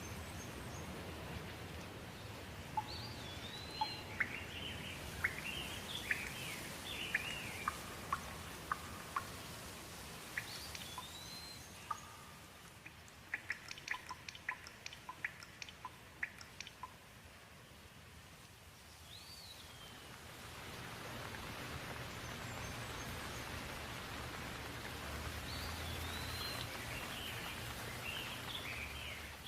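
Steady rain hiss with birds calling over it, a rising-and-falling whistled phrase returning several times. A run of sharp ticks like drips comes midway, and the rain grows louder in the second half.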